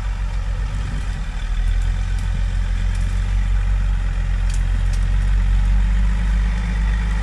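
Off-road 4x4's engine running steadily at low revs as the vehicle crawls forward in low range, growing slightly louder after about a second and a half.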